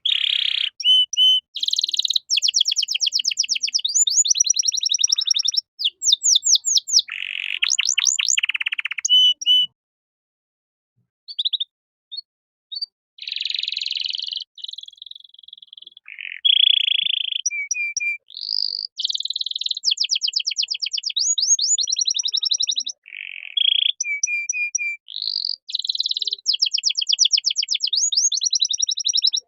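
Domestic canary singing a long run of fast, high trills and rolls, phrase after phrase, with a short silent break about ten seconds in.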